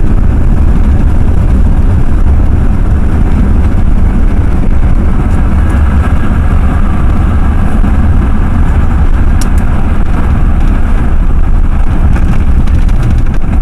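Cab noise of a Ford F-350 pickup on the move: a steady, heavy low rumble of engine and road.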